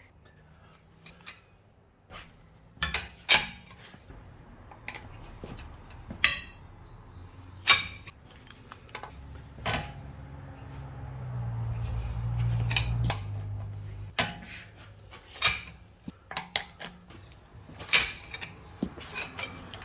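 Metal hand tools clinking and knocking in scattered sharp strikes: a wrench and socket fitted to and worked on the wheel nuts and the locking wheel-bolt adapter. A low hum swells and fades about halfway through.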